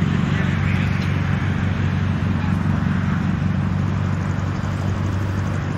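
Engine of a VW-based Puma sports car, an air-cooled flat-four, running steadily at low speed as the car creeps across grass.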